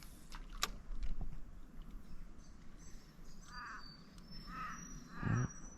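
A crow cawing: a few harsh calls about a second apart, starting about three and a half seconds in. Two sharp clicks come shortly before, in the first second.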